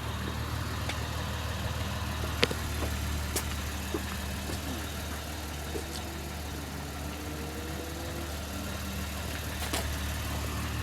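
2008 Lexus IS250's V6 engine idling steadily, heard from outside the car, with a few light clicks over it.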